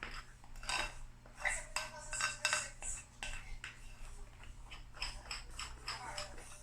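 Metal kitchen utensils clinking against a bowl and dishes: irregular knocks, several with a short ringing tone, typical of mixing batter.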